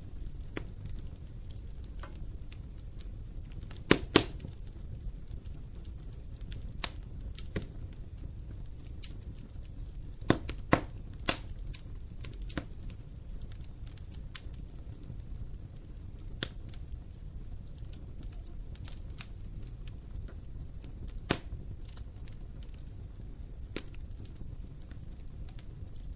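Wood fire burning in a fireplace, a steady low rumble with scattered sharp pops and crackles from the burning logs; the loudest snaps come in pairs about 4 seconds in and about 10 seconds in, with another near the end.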